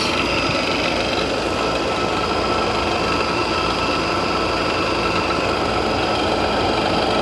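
LG 10,000 BTU window air conditioner running, its compressor and fan giving a steady hum with a thin, steady whine on top.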